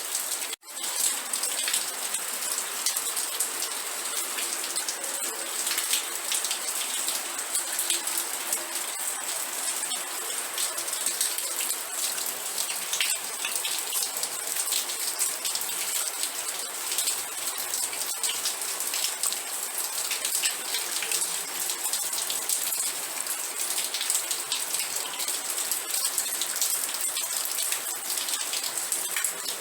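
Steady rain, with many close individual drops ticking over a continuous hiss. The sound cuts out for an instant about half a second in, then resumes at the same level.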